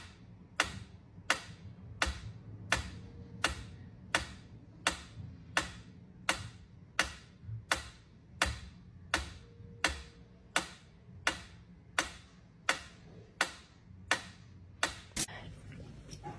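Steady, evenly paced ticking: a sharp click about three times every two seconds, over a low hum, stopping shortly before the end.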